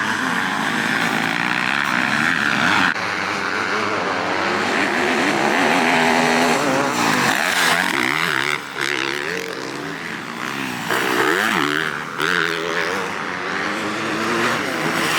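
Motocross dirt bike engine revving hard, its pitch climbing and dropping again and again as the rider works the throttle and gears, over a steady rushing noise.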